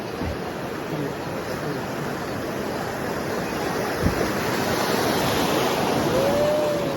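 Rushing river water splashing against a boat, swelling louder toward the middle, with a single knock about four seconds in and a brief rising-then-falling tone near the end.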